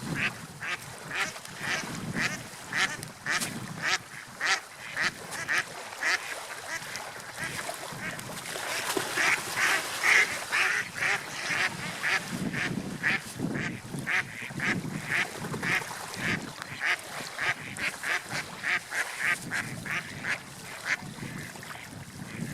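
Seagulls calling over and over in short, quick calls, about two to three a second, loudest around the middle, over a low rumble that swells and fades.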